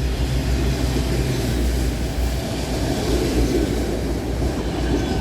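Rear cars of a freight train rolling past, a steady rumble of wheels on rail.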